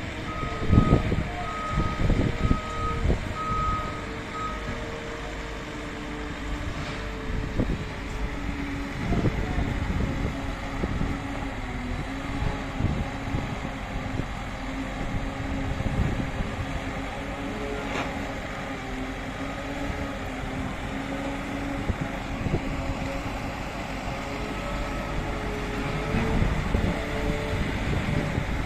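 A vehicle's reversing alarm beeping in a run of short, even beeps on one pitch over the first few seconds, and faintly again near the end, over the steady running of a truck engine. Gusts of wind rumble on the microphone.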